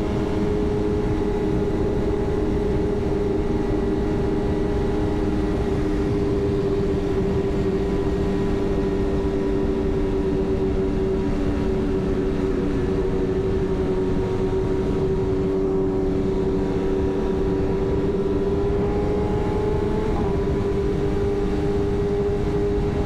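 Sport motorcycle engine running at a steady highway cruising speed, one even drone with a small pitch change about twenty seconds in, over wind rushing past.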